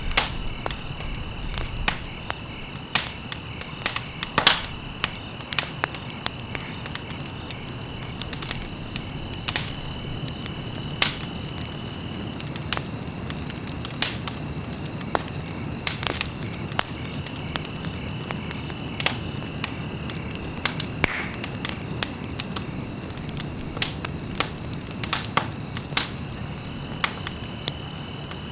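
Wood fire burning in a fireplace, crackling with frequent sharp, irregular pops over a steady low rush.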